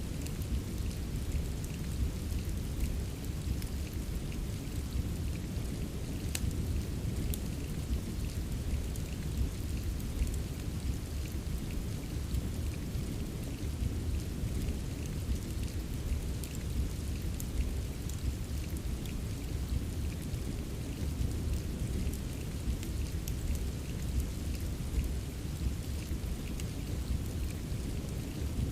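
Steady rain with a deep low rumble under it, and scattered sharp crackles and pops of a wood fire.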